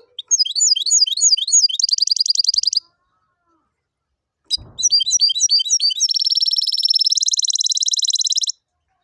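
Goldfinch × canary hybrid singing: two song phrases, each a run of quick repeated chirping notes running into a fast trill, the second trill held for about two seconds. A brief low knock comes just before the second phrase.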